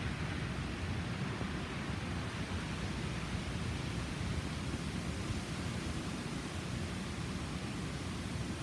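Hurricane wind blowing steadily, a continuous rushing noise heaviest in the low end.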